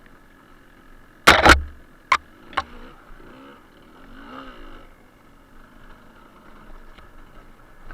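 Suzuki TS125R two-stroke single-cylinder engine running quietly, with a loud thump about a second in followed by two sharp knocks.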